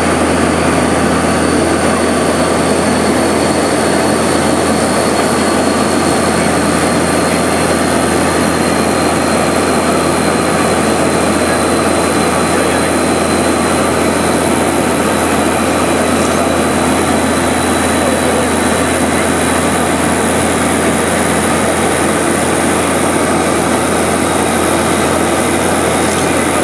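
Loud, steady drone of a seaplane's propeller engines heard from inside the cabin, with a high whine that sinks slightly in pitch over the stretch.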